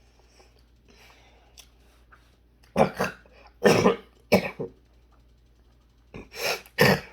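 A man coughing, clearing his throat and gagging in harsh bouts: three close together around the middle and three more near the end. He puts the gagging down to his sinuses.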